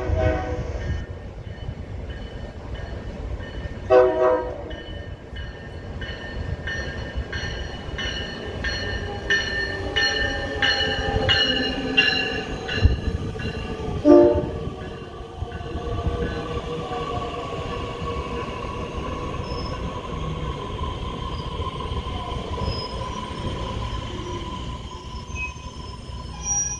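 Metra Electric bilevel electric train arriving: two short horn blasts, about four seconds in and again near the middle, with a bell ringing rapidly between them. After the second blast the train's whine falls in pitch as it brakes to a stop, leaving a steady electrical hum while it stands at the platform.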